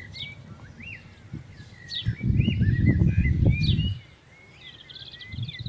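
Birds chirping and calling over and over, with a loud low rumble from about two to four seconds in.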